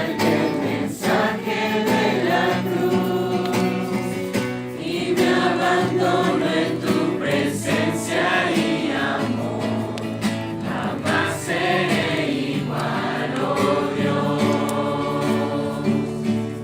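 Music with several voices singing together, choir-like.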